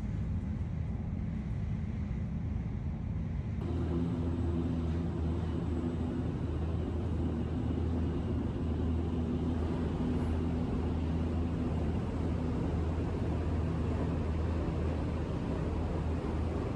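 Shinkansen bullet train running, heard from inside the passenger car: a steady low rumble with a hum that gets louder about three and a half seconds in.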